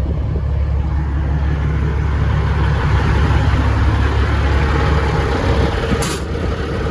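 Wind buffeting the microphone as a heavy, steady low rumble with a rough rushing haze over it, and one sharp knock about six seconds in.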